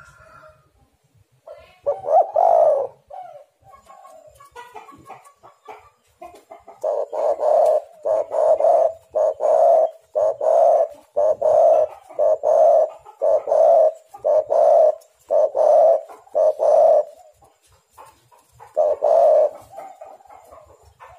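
Spotted dove cooing: a loud coo about two seconds in, then a long run of evenly spaced coos, roughly one a second, for about ten seconds, and one more coo near the end.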